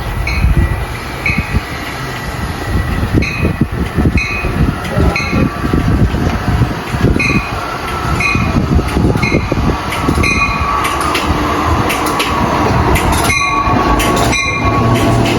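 Amtrak Keystone train running through the station cab car first without stopping: a loud rumble and clatter of wheels on rail. Short high-pitched chirps repeat every half second or so, and it grows louder toward the end.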